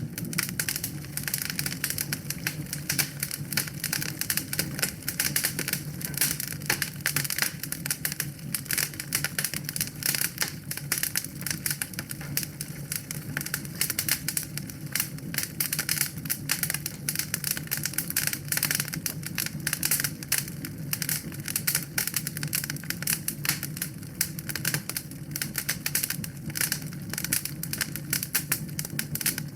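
Wood fire in a fireplace crackling: dense, irregular pops and snaps over a steady low hum.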